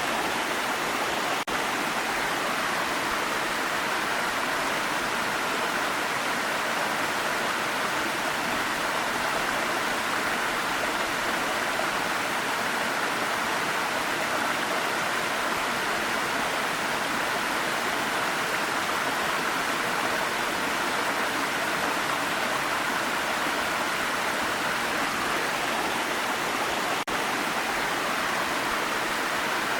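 Waterfall: a steady, even rush of falling water, unchanging throughout, with two barely noticeable momentary dips.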